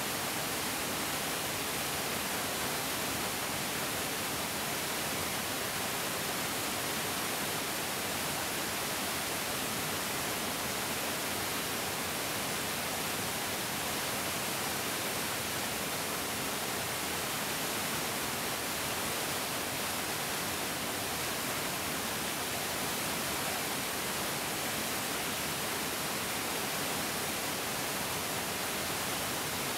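Mountain stream flowing: a steady, even rush of water with no breaks or changes.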